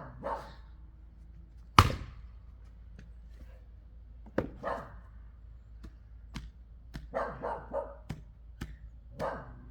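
An axe splitting wood, with one loud sharp strike about two seconds in and lighter knocks after it. A dog barks repeatedly, a single bark at a time or three in quick succession.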